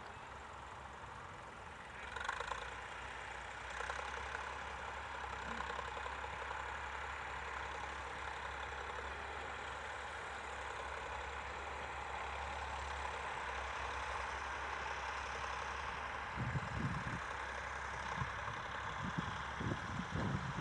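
Tractor engine running steadily at a distance, with a few low thumps near the end.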